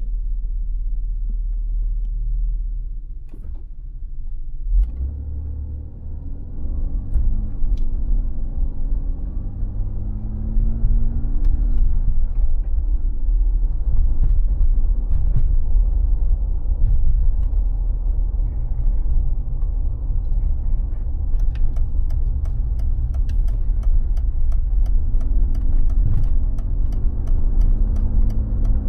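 Mercedes G 36 AMG's 3.6-litre straight-six running as a steady low rumble, with one thump about five seconds in. The engine note then rises and falls in pitch repeatedly, as when driving through the revs, with scattered faint ticks toward the end.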